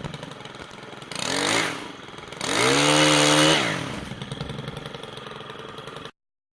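Chainsaw engine idling, revved up briefly about a second in and again for about a second in the middle, its pitch rising then holding before dropping back to idle; the sound cuts off suddenly near the end.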